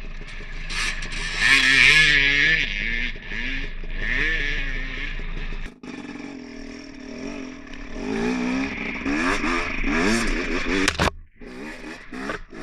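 Dirt bike engine revving up and down over and over as it is ridden, with breaks about six seconds in and again near the end.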